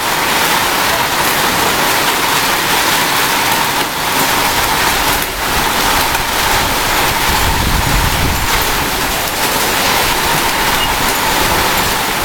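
Steady hiss of rain falling in a summer storm. A low rumble rises and fades about eight seconds in.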